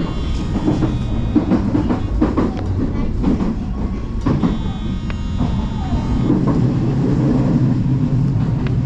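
Odakyu Line electric commuter train running on the rails, heard from inside the car: a steady low rumble with clicks over the rail joints. A high, steady squeal rings out briefly near the start and again around the middle.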